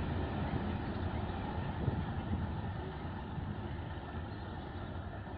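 Container freight train rumbling away down the track, its rolling noise slowly fading as it recedes.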